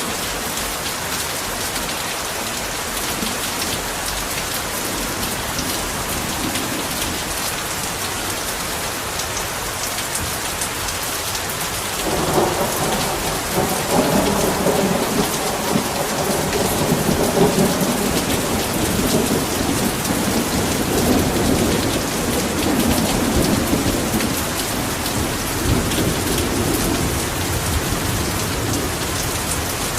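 Heavy rain pouring steadily. About twelve seconds in, a long roll of thunder starts suddenly and rumbles on for around fifteen seconds, slowly dying away near the end.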